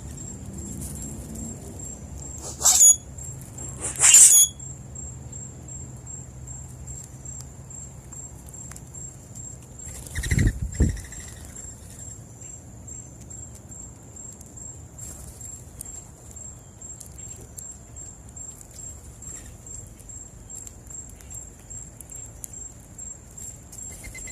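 Outdoor dawn ambience where birds and a rabbit are feeding on birdseed. A steady high-pitched pulsing whine, like an insect, runs throughout, with faint pattering and rustling. Three short louder sounds stand out: two sharp ones about a second and a half apart near the start, and another about ten seconds in.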